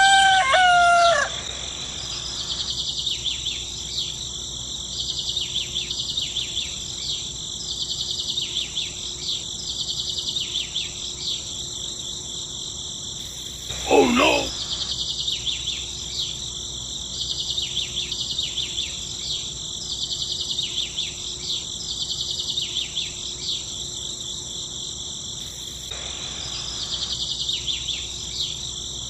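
A rooster crowing, its call ending about a second in, over a steady high-pitched chorus of insects or small birds that pulses about once a second. A second, shorter call dips and rises in pitch about halfway through.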